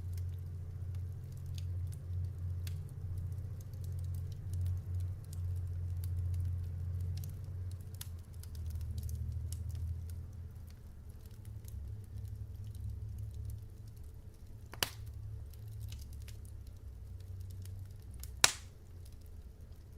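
Logs burning in a fireplace: a steady low rumble with many small crackles, and two sharp pops, one about 15 seconds in and a louder one near the end.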